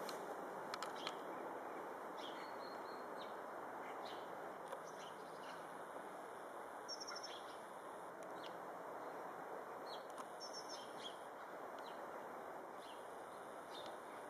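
Small birds chirping now and then over steady outdoor background noise: short high chirps, with a quick run of a few notes about seven seconds in and again about ten seconds in.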